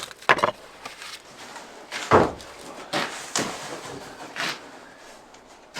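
A handful of knocks and thuds as wooden things are handled and set down, the loudest about two seconds in.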